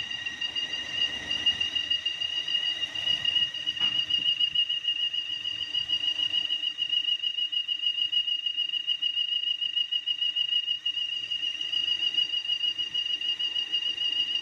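Steady high-pitched whistle from a 2016 Chevrolet Cruze engine with the motor running, over a faint low hum. The whistle is the car's vacuum-leak noise from a failed PCV valve, the fault that replacing the PCV valve cured.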